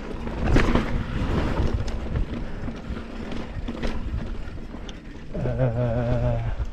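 Wind buffeting the microphone over the rumble and rattle of a mountain bike rolling over slickrock. Near the end comes a short, low, steady hum about a second long.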